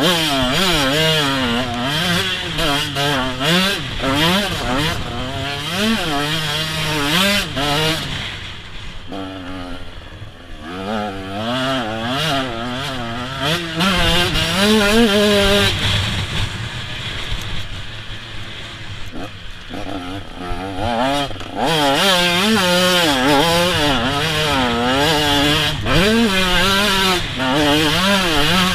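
A 125 SX two-stroke motocross bike engine ridden hard round a track, its pitch rising and falling over and over as the rider opens and closes the throttle and shifts gears.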